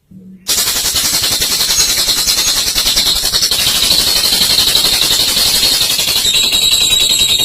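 Olive lovebird's long 'ngekek' chatter: a continuous, very rapid, high-pitched rattling trill that starts about half a second in and runs on without a pause.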